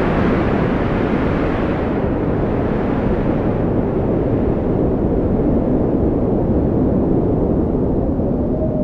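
Strong wind blowing steadily, a deep rushing noise with a faint whistle that wavers in pitch and rises near the end.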